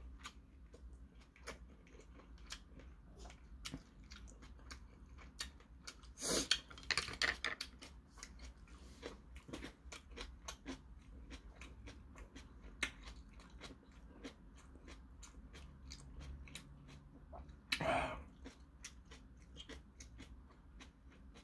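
A person chewing a mouthful of seafood jjamppong noodles and squid close to the microphone, with many small wet mouth clicks. Two louder noisy mouth sounds come about six to seven seconds in and again near eighteen seconds.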